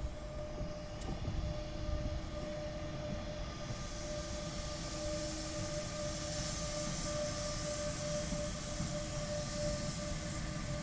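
A train running, with a steady hum over a low rumble; a hiss comes in about four seconds in.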